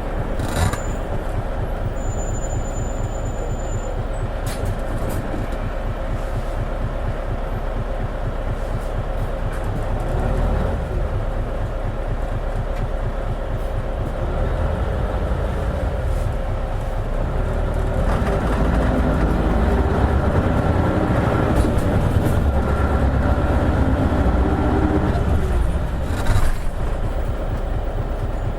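Isuzu Erga KL-LV280N1 diesel city bus running, heard from inside the cabin: engine and road noise with a few knocks from the body. The engine grows louder for several seconds in the second half, as when the bus pulls away or picks up speed.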